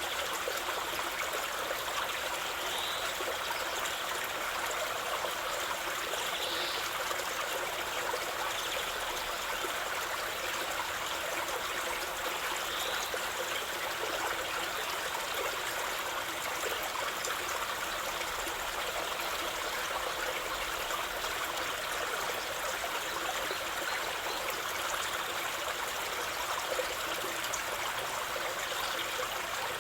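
Water of a stream flowing steadily, an even, unbroken rush.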